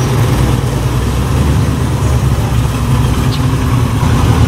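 Classic Chevrolet Camaro convertible's engine running with a steady low note as the car drives slowly past at walking pace.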